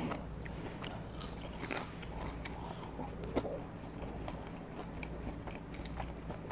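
A person chewing a mouthful of fried fast food with the mouth closed: soft, quiet chewing with scattered small crunchy clicks.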